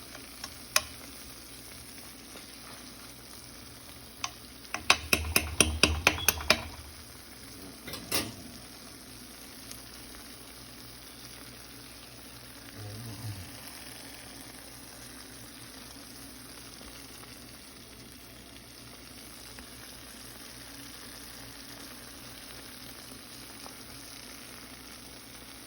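Chicken frying in a pan with a steady sizzle. About five seconds in, a quick run of sharp clicks and scrapes comes from a utensil stirring against the pan, and a few single knocks sound before and after it.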